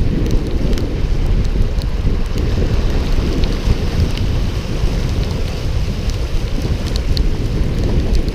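Wind buffeting the microphone: a loud, steady rumble with scattered light ticks over it.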